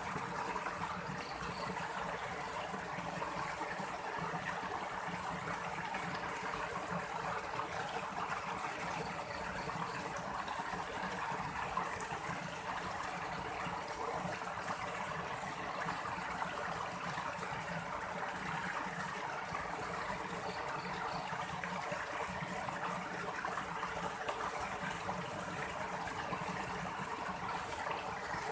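A stream running steadily, with a continuous even rush of water.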